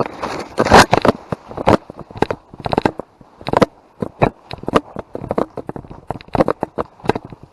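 Footsteps moving fast over dry leaves and brush, crunching and crackling; dense and noisy for the first second, then an even stride of about three steps a second.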